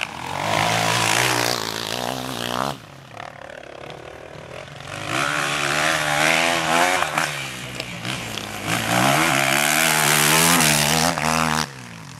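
Enduro dirt bike engine revving hard under load on a climb, its pitch rising and falling with throttle and gear changes. It drops back about three seconds in, surges again a couple of seconds later, and falls away suddenly near the end.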